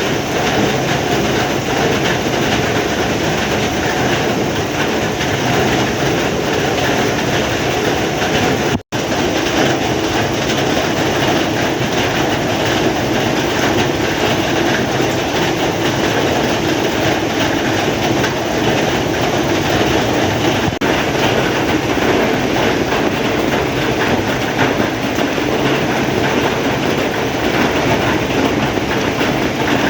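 Heavy rain pouring down in a dense, even hiss that cuts out for an instant about nine seconds in.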